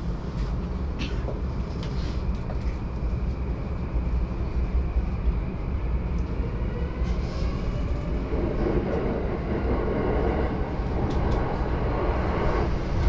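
JR Yamanote Line commuter train running between stations, heard from inside the car: a steady low rumble of wheels on rails with scattered clicks. The rail rumble grows louder from about eight seconds in.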